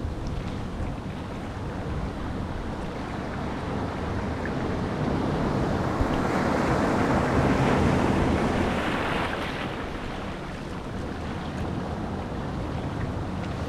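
Ocean surf washing on the shore, a steady rush that swells into a louder breaking wave about halfway through, then falls back. A low rumble of wind on the microphone runs beneath it.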